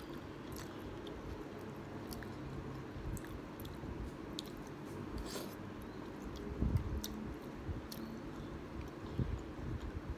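A person chewing a mouthful of food close to the microphone, with wet mouth smacks and small sharp clicks scattered throughout and a few louder thuds about two-thirds of the way in.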